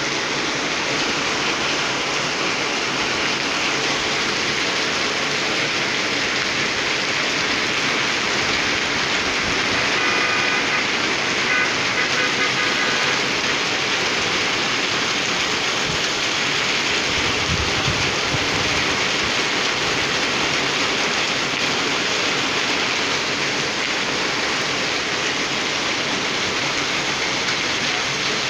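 Torrential rain pouring down steadily, a dense even hiss of rain on sheet-metal roofs and a flooded street. A short low rumble comes a little past halfway.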